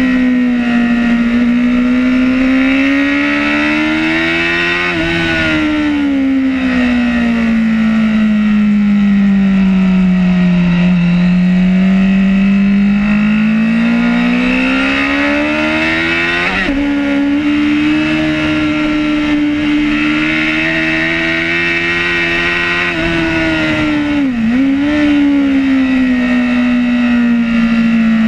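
Superbike engine at racing speed heard from on board, its note rising and falling with the throttle through corners. The pitch jumps suddenly at gear changes about five seconds in, around seventeen seconds and near the end. A steady rush of wind lies under it.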